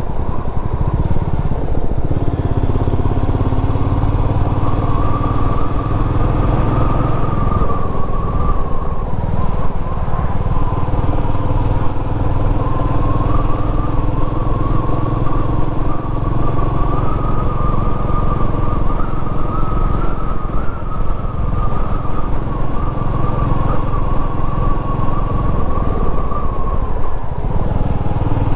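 Royal Enfield Meteor 350's single-cylinder engine running steadily under way, its pitch rising and falling a little with the throttle, with a brief drop in revs near the end.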